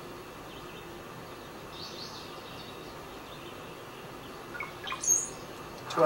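Recorded bird calls: faint chirps over a steady background hiss, then a couple of short, sharp calls about five seconds in.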